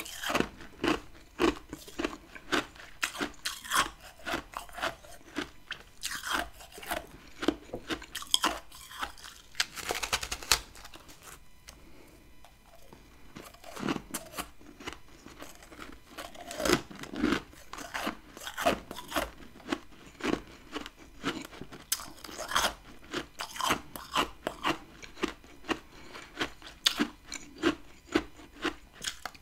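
A person biting and chewing chunks of hard freezer frost close to the microphone: dense, crisp crunches, easing into a quieter lull for a few seconds near the middle before the crunching starts up again.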